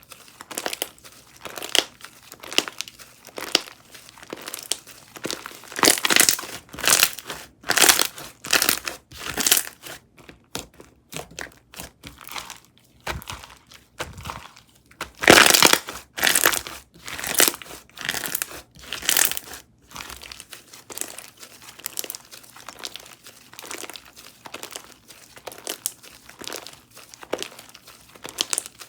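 Slime being squeezed, pressed and pulled by hand, giving a run of short squishy crackles, louder in the middle stretch and softer toward the end.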